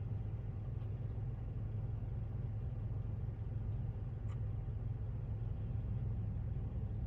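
Steady low rumble of a car's engine idling, with one faint click about four seconds in.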